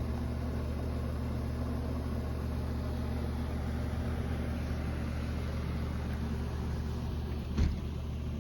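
Steady low mechanical hum, with one short thump near the end.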